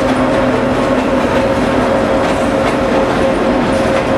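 CSX SD70MAC diesel-electric locomotive passing with its engine running, its steady note fading after about a second and a half as covered hopper cars follow, their wheels clicking over the rail joints.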